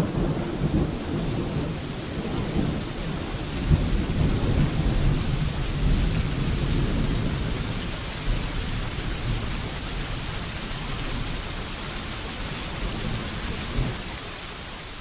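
Steady rain falling with a long low rumble of thunder that slowly dies away, the whole sound starting to fade near the end.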